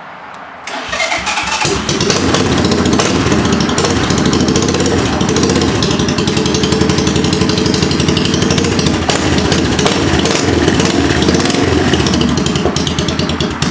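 1984 Honda ATC200M's single-cylinder four-stroke engine starting from cold, catching within about the first two seconds, then running steadily and loud through a straight pipe.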